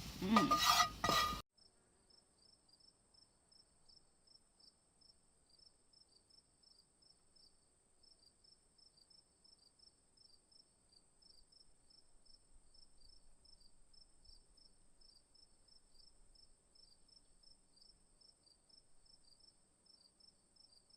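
Faint insects chirping: a steady high trill with a rapid, even train of chirps beneath it. A voice is heard briefly at the start.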